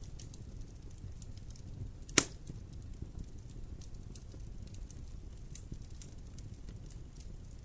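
Wood fire in a fireplace crackling over a low steady rumble, with scattered small crackles and one loud sharp pop about two seconds in.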